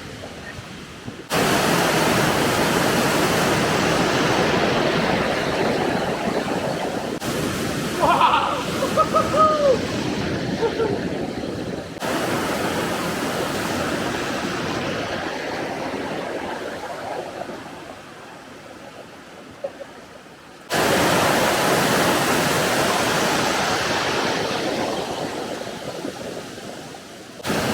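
Waterfall: a steady rush of falling water, cut together from several shots, so the level and tone jump abruptly every few seconds.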